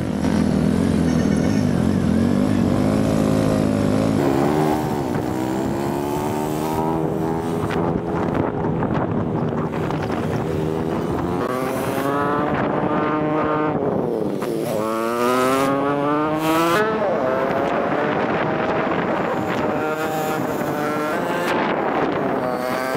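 Motorcycle engine running under way with a rider aboard, its pitch climbing repeatedly as it accelerates and dropping back sharply at each gear change.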